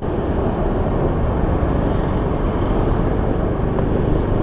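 Steady vehicle noise from riding through city traffic: an even rumble and hiss with no distinct events.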